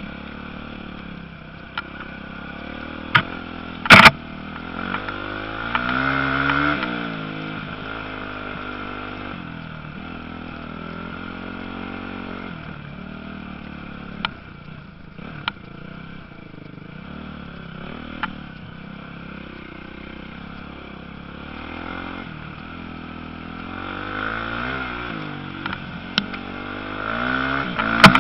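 Motocross bikes running on the track, engine pitch rising and falling as riders rev and shift, loudest about six seconds in and again near the end. A few sharp knocks cut in, the strongest about four seconds in.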